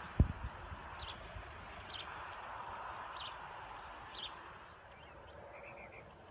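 A bird calling a short, high, falling chirp about once a second over steady outdoor background noise, with a single low thump just after the start.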